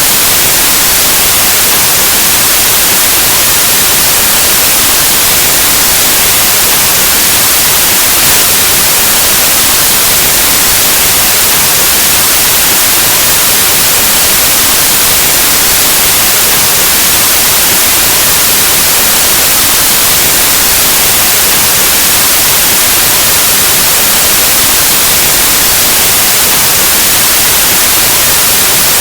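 Loud, steady white noise: an even static hiss across the whole range of hearing, like an untuned analog television or radio, unchanging throughout.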